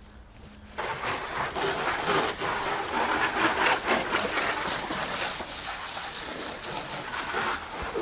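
Water spray hissing steadily against a car wheel and brake caliper, starting suddenly about a second in.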